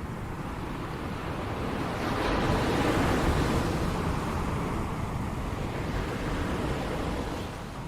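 Ocean surf: a wave washes in, swelling about two seconds in and slowly fading near the end, with wind rumbling on the microphone.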